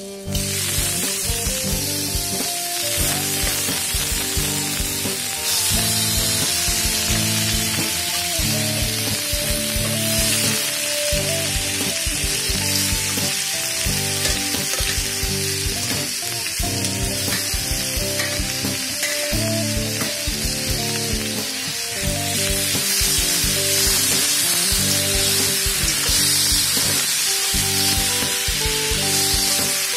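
Pieces of pork meat and pork intestine sizzling as they fry in hot oil in a wok, stirred with a metal ladle. The sizzle starts suddenly right at the start and grows louder about five seconds in and again after about twenty-two seconds, with background music beneath it.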